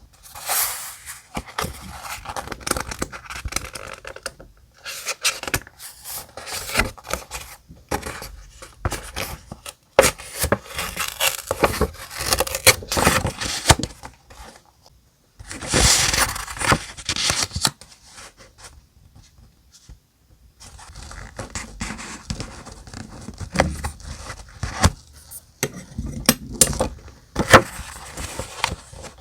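Paper and stickers being handled close up for journal decorating: rustling and scraping with small taps and clicks, in bursts separated by brief pauses.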